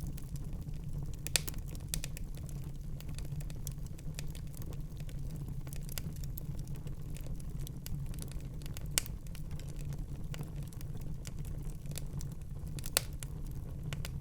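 Wood fire crackling in a fireplace: a steady low rumble of burning with scattered small crackles throughout and three sharper pops, about a second in, midway and near the end.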